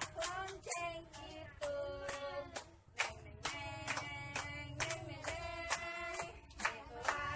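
Young children singing a song with a woman's voice leading, while hands clap along several times a second.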